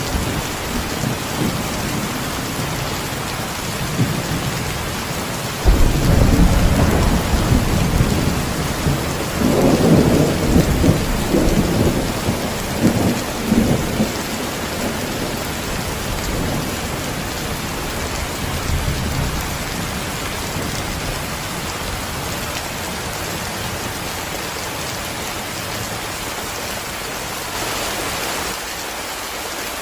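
Heavy rain falling steadily. About six seconds in, a sudden clap of thunder breaks out and rumbles on in rolling waves for about eight seconds before fading back under the rain.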